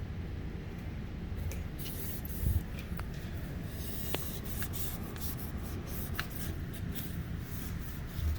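Cleaning noises: a few short hisses like a spray bottle, and rubbing or wiping, with scattered small clicks over a low steady rumble.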